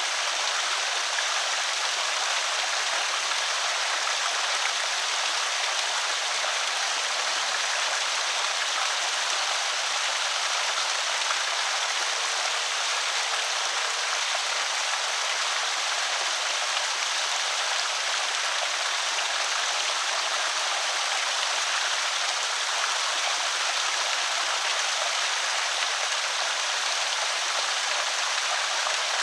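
Water spilling over a small creek spillway, a steady, even rush of splashing and trickling that does not change.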